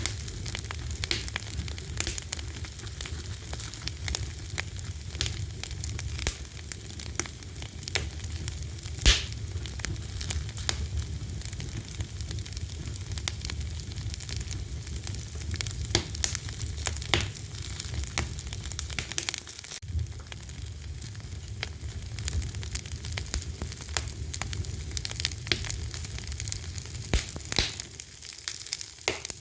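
Wood fire crackling and popping: irregular sharp snaps over a steady low rumble of flame, with one louder pop about nine seconds in.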